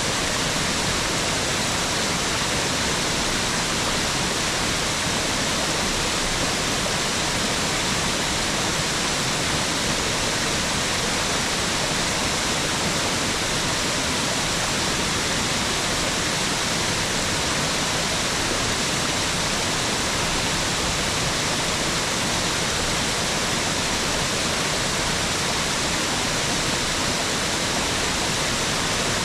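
Mountain waterfall: falling water rushing in a steady, unbroken roar.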